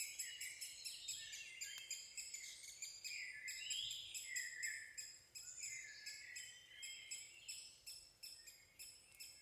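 Wild birds singing and calling: a fast, even run of high ticking chips, about six a second, under several overlapping warbled phrases.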